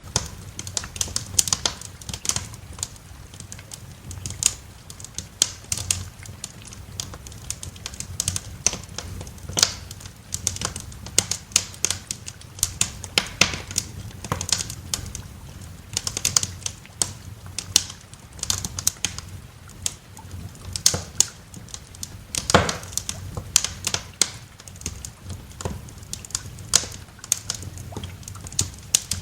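Wood fire crackling, with dense, irregular sharp pops over a low, steady rumble. One louder pop comes about two-thirds of the way through.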